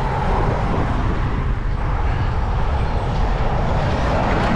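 Steady wind rumble on the microphone with road noise, the hiss swelling slightly near the end.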